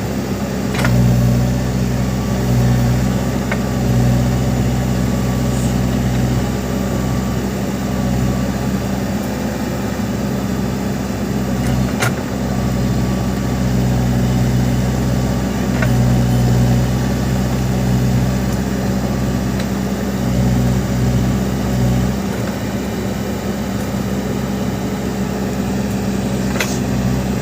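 Backhoe loader's diesel engine running steadily, its note swelling and easing every few seconds as the hydraulics take load, with a few sharp metallic knocks.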